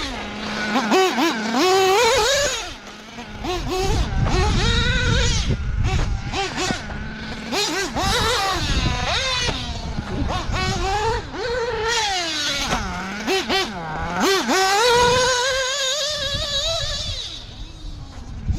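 Mugen Seiki MBX8R 1/8 nitro buggy's O.S. Speed 21 XZ-B Ty Tessmann two-stroke nitro engine being driven, its pitch rising and falling again and again as the throttle is opened and closed, with a low rumble underneath.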